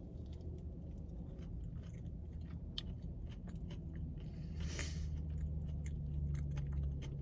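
A person biting into and chewing a fried chicken biscuit close to the microphone, with many small wet mouth clicks and crunches. The chewing gets a little louder about five seconds in.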